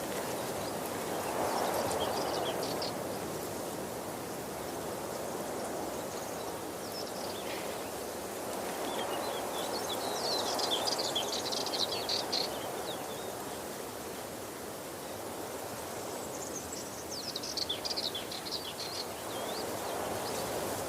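Waterfall rushing steadily, swelling and easing slowly, with short bursts of high bird chirping a few times over it, the longest about ten seconds in.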